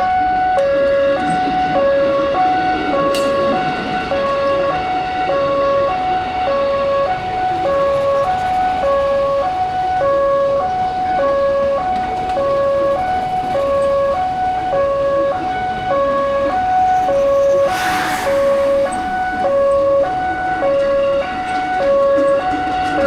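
Railroad level-crossing warning alarm sounding continuously, two electronic tones alternating high and low about once a second. A brief burst of hiss cuts in about eighteen seconds in.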